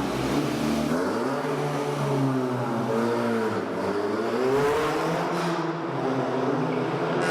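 Golf 6 GTI's 2.0 TFSI turbocharged four-cylinder engine, tuned to about 300 PS, revving: the engine note climbs about a second in, drops back, climbs again around the middle and settles lower near the end.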